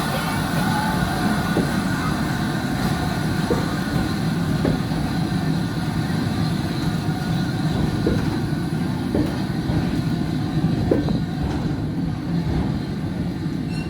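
Heritage steam train on the Bristol Harbour Railway running along the track: a steady rumble of the train in motion, with scattered clicks of the wheels over the rail joints.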